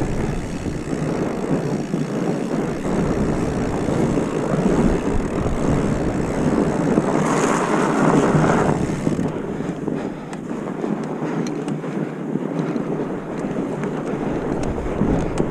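Steady rushing noise of wind on the microphone, a rough, even noise that swells for a couple of seconds around the middle.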